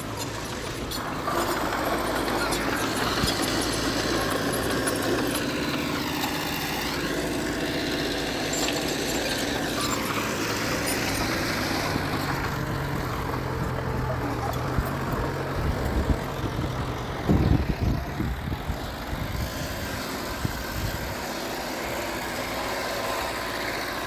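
Diesel engine of heavy earthmoving machinery running steadily under work. A short run of heavy knocks comes about seventeen seconds in.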